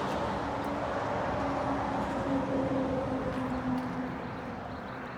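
Vehicle engine noise: a steady rumble with a faint hum, easing off slightly toward the end.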